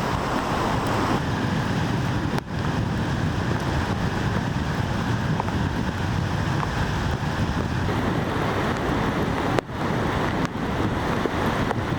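Steady rushing water of a storm-swollen river, a continuous roar of noise with no distinct events. It dips briefly twice, about two and a half seconds in and near ten seconds in.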